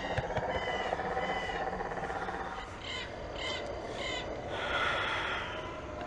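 Birds calling: short harsh calls, three in quick succession about half a second apart around the middle, over a steady outdoor background. A rustling hiss follows near the end.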